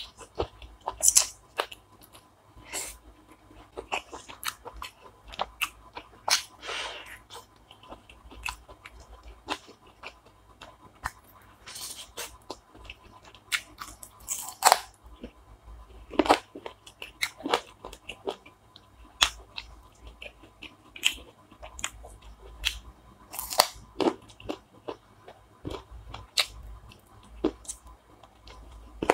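Close-miked chewing and biting of food, with irregular crunches and mouth clicks spaced unevenly through the stretch.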